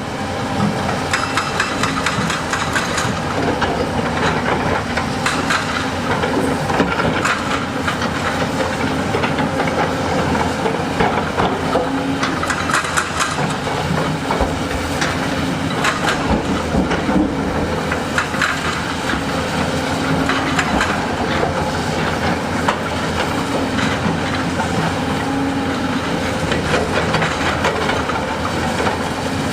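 Heavy diesel earthmoving machinery working: a steady engine drone mixed with dense, continual rattling and clanking.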